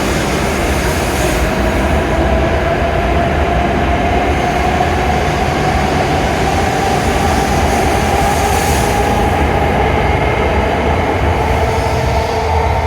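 E7 series Shinkansen train pulling away, with a loud steady running rumble and a motor whine rising slowly in pitch as it gathers speed.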